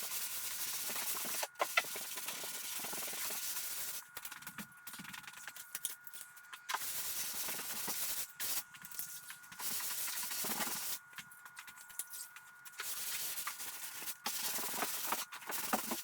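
Sanding of the wooden canoe hull: a scratchy, hissing rasp in stretches of one to three seconds, each starting and stopping abruptly.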